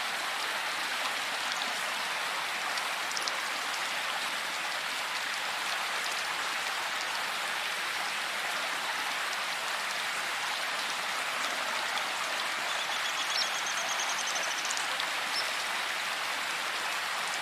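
Steady rain falling in a forest, an even hiss of drops with no letup. About two-thirds of the way through, a faint high trill sounds briefly over it.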